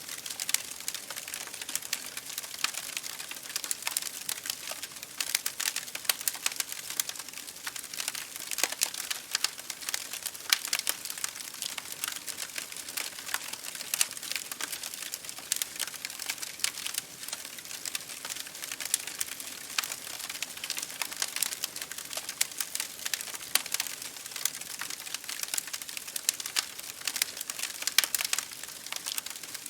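Wood fire crackling in a fireplace, a dense run of small snaps and pops, over the steady patter of rain against a window pane.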